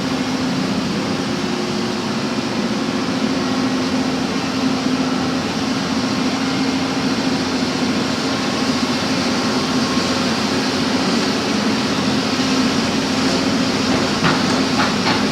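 Backhoe engine running steadily with a constant low hum, and a few light clicks or knocks near the end.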